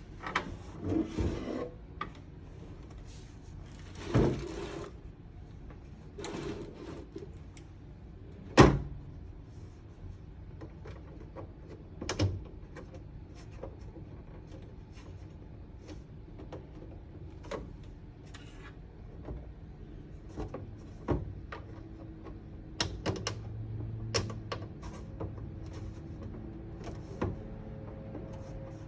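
Hands handling and fitting the diorama's plastic and cardboard pieces: scattered clicks, taps and rustling, with one sharp knock about nine seconds in.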